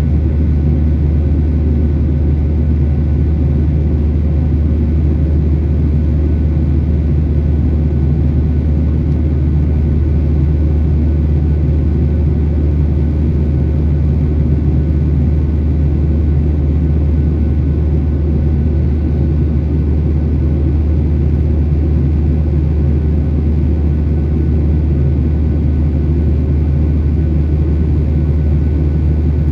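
Boeing 737-800's CFM56-7B jet engines running steadily, heard from inside the passenger cabin as a loud, even, low drone.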